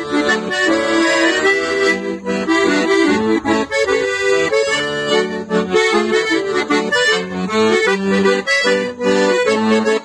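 Accordion playing an instrumental passage of a gaúcho song: a quick melody over held chords.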